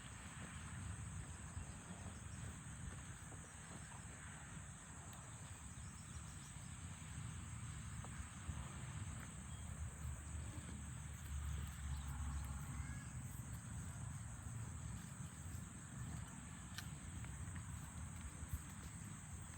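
Quiet outdoor farm ambience: a steady high-pitched drone of insects over a low rumble of wind, with a few faint ticks.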